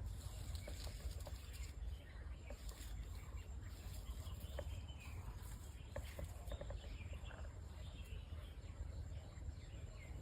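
Quiet outdoor ambience: a steady low rumble, scattered faint ticks and rustles, and faint bird chirps.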